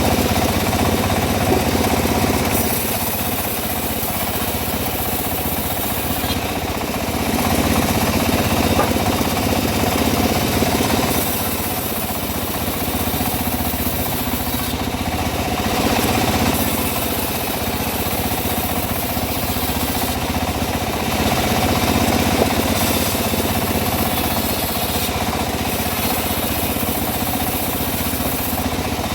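Homemade engine-driven bandsaw mill running continuously while sawing teak, its sound swelling and easing every few seconds.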